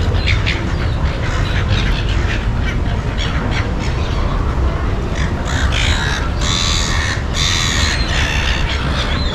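Birds calling with harsh, crow-like squawks, heaviest in a burst of loud calls from about five and a half to eight and a half seconds in, over a steady low rumble of city background.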